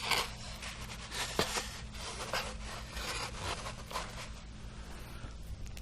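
Rustling and scraping handling noises, a quick run of short strokes that die away after about four seconds, over a low steady hum.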